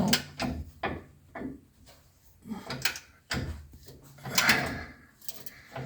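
Irregular metallic clicks and clanks of hand tools: a socket and ratcheting breaker bar being worked on the lower control arm bolts.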